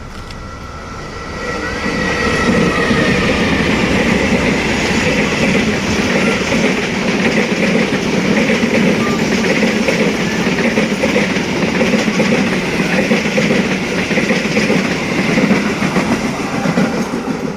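A train passing close by, its wagons rolling with a clickety-clack of wheels over the rail joints. It swells about a second and a half in and stays loud and even until near the end.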